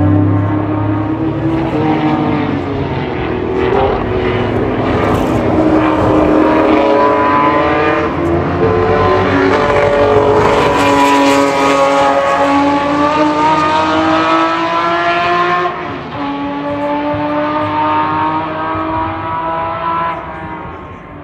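Historic racing car engines at full throttle passing on a circuit, more than one engine note at once, their pitch climbing and falling through gear changes. The sound is loudest in the middle and drops away near the end.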